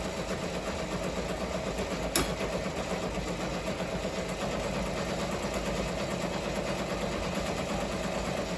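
Ricoma MT-1501 multi-needle embroidery machine running steadily as it stitches a design, its rotary hook just re-timed after being set too early. A single sharp click about two seconds in.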